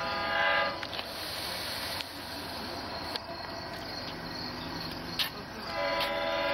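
Horn of an LIRR DM30AC diesel locomotive approaching the station, sounding two blasts: one ending under a second in and another starting near the end. Crickets chirp steadily between the blasts.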